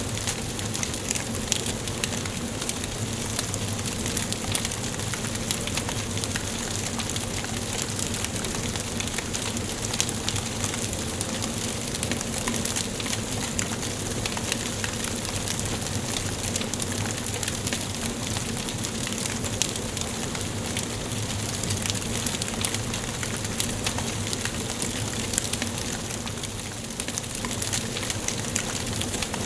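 Wood fire burning in a fireplace: a steady hiss with many small crackles and snaps scattered throughout.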